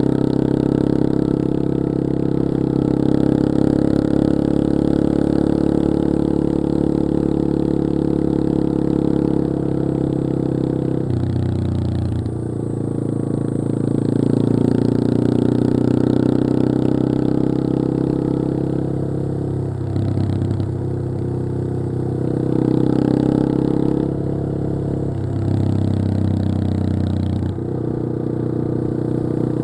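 Yamaha XT225 Serow's air-cooled single-cylinder four-stroke engine running under way. The engine note drops about a third of the way in and then changes pitch several more times in the second half, as the revs rise and fall.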